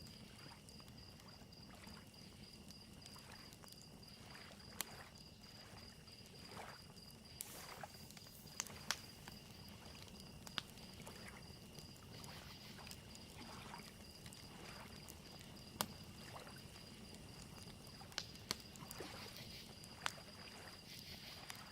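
Small lake waves lapping softly on a shoreline, a crackling campfire giving sharp pops now and then, and crickets chirping in a steady high trill.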